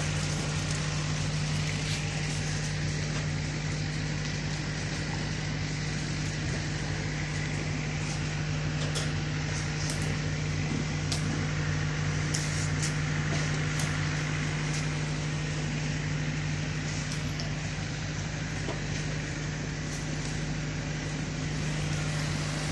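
Steady low machine hum that does not change, with a few faint clicks in the middle.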